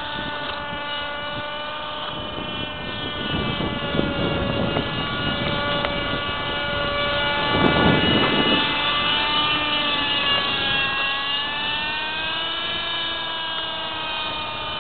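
Radio-controlled Pegasus 18 helicopter's small .18 glow engine running in flight, a high buzzing tone that wavers in pitch, with a louder whooshing swell about eight seconds in. The engine is one the owner finds underpowered, losing still more power as it heats up.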